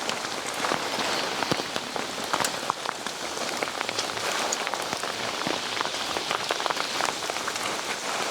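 Steady rain falling, with many individual drops striking close by in sharp, irregular ticks.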